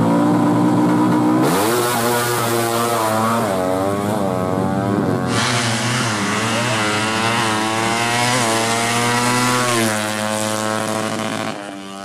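Yamaha MX King motorcycle engine, bored up to 200cc, revved with repeated throttle blips, its pitch rising and falling again and again before settling near the end.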